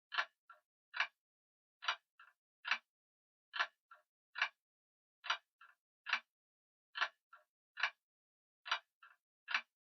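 Grandfather clock ticking in a lopsided rhythm: two loud ticks with a fainter tick between them, the group of three repeating about every one and three-quarter seconds with a pause after each.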